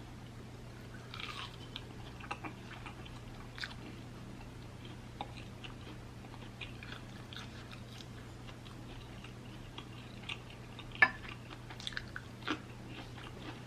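Close-up chewing and biting on fried chicken wings: soft crunches and wet mouth clicks, with one sharper, louder click about eleven seconds in, over a steady low hum.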